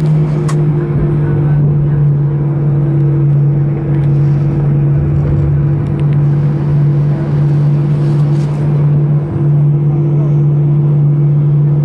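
Airbus A320 cabin noise on the ground after landing: a steady engine hum with a low rumble beneath it.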